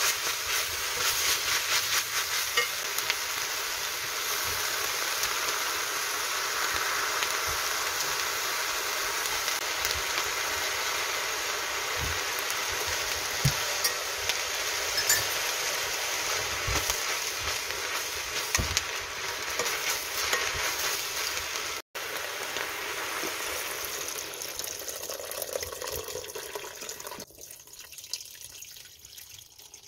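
Soaked wakame seaweed and meat sizzling as they are stir-fried in a pot, with a spatula stirring and knocking against the pot now and then. Near the end the sizzling dies away suddenly as water is poured in.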